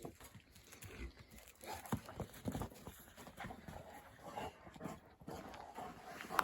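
East European Shepherd scuffling with a ball: irregular knocks and scrapes of paws and ball against the ground.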